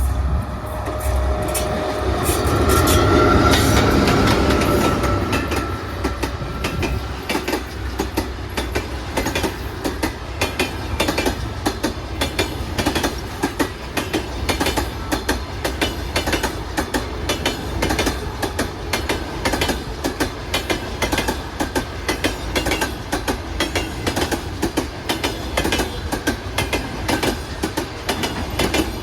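EP1M electric locomotive passing with a steady humming tone, loudest a few seconds in. The passenger coaches then roll by, their wheels clacking rhythmically over the rail joints.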